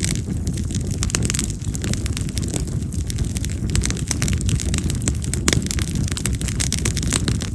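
Split yamazakura (wild cherry) firewood burning in an open fire: a steady low rush of flame with frequent sharp crackles and pops, one louder pop about five and a half seconds in.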